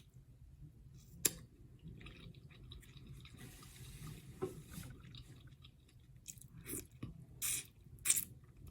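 Close-miked eating of crab legs and shrimp in butter sauce: wet chewing and squishing. There is a sharp click about a second in and a few louder crackly bursts near the end.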